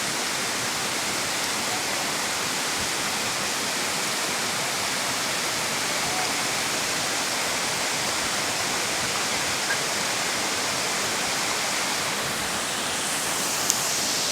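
A waterfall rushing steadily, a dense unbroken sound of falling water, with one brief click near the end.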